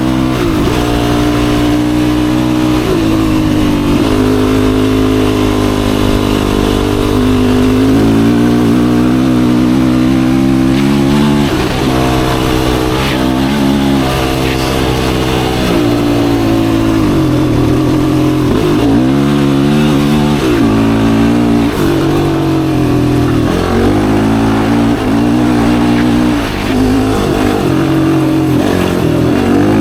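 Yamaha YFZ450R quad's single-cylinder four-stroke engine running under load, its pitch climbing and dropping with throttle and gear changes. In the second half the throttle is blipped and eased off every second or two.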